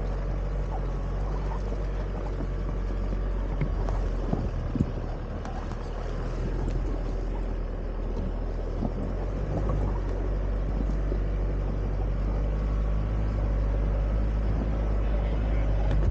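A 4x4's engine running steadily at low revs, with a few short knocks a few seconds in.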